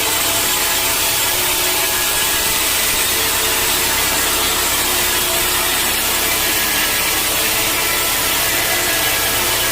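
Sawmill saw cutting through a mahogany log: a steady, even sawing hiss over the low hum of the mill's machinery.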